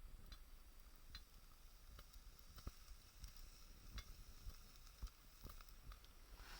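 Small wood fire burning in a homemade drink-can secondary-combustion stove: faint, irregular crackles and ticks over a low hiss.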